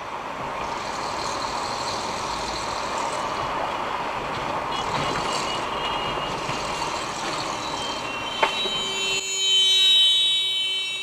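Road and traffic noise as heard from a vehicle on a dashcam. About eight seconds in there is a sharp knock, followed by a loud, high-pitched, steady tone that lasts about two seconds.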